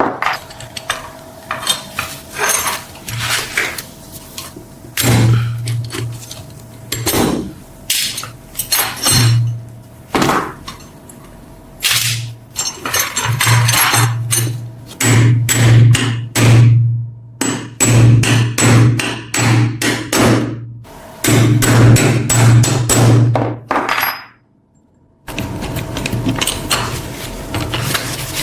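Repeated hammer strikes and knocks in irregular clusters of taps. About 25 s in they give way to steady rubbing, like sanding or filing.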